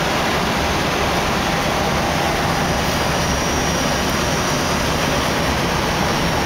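Steady rushing noise in the cockpit of an Airbus A319 in flight: airflow over the nose and windscreen mixed with engine noise, unchanging throughout.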